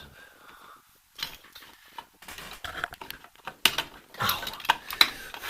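Metal parts clinking and scraping in irregular clicks as rear drum brake components are handled and worked into place by hand, busiest in the second half.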